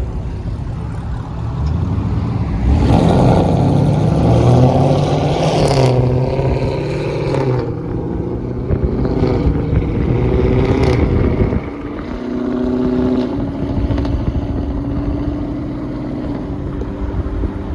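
Dodge 392 Scat Pack's 6.4-litre HEMI V8 engine accelerating, its pitch climbing and falling through the revs for several seconds, then easing off to a steady drone near the end.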